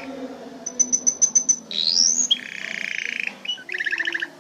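Canary singing a varied phrase: a run of quick, high repeated notes, a rising sweep, then a rolling trill and a second, faster trill near the end.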